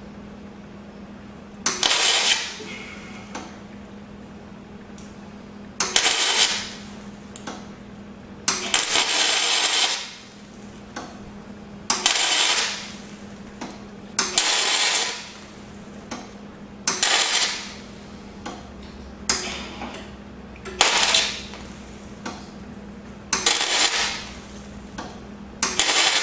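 Electric welder crackling in about ten short bursts of a second or so each, a few seconds apart, over a steady low hum. Weld is being built up on the stub of a broken exhaust manifold bolt so the stub can be gripped and twisted out.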